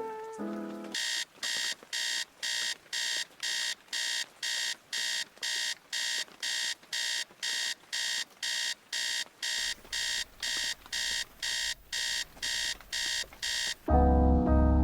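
Electronic alarm beeping: evenly spaced high-pitched beeps, about two a second, that stop suddenly near the end as piano music comes in. A few musical notes are heard just before the beeping starts.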